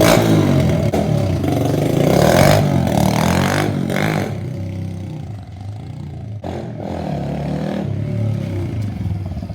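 Yamaha TTR110 pit bike's single-cylinder four-stroke engine running with its exhaust baffle removed, giving an open, louder exhaust note. It is revved hard several times in the first few seconds, drops back toward idle about halfway through, then picks up a little again.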